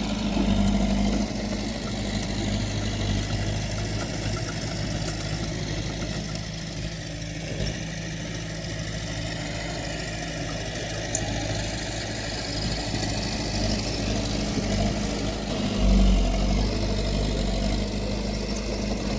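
Diesel engine of a heavy earthmoving machine running steadily at a low, even rumble. It grows louder about sixteen seconds in.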